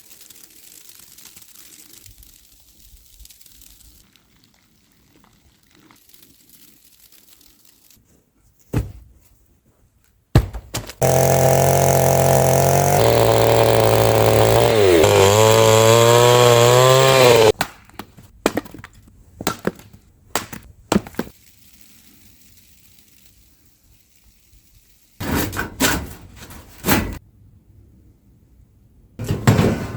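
A chainsaw runs for about seven seconds, its pitch dropping partway through as it bites into wood and then rising again. Sharp knocks and cracks of wood come before and after it.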